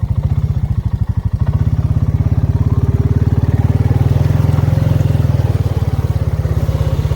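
Honda four-wheel-drive ATV engine running at low revs under load, a steady thudding pulse that picks up about one and a half seconds in as the quad pushes through deep ditch water.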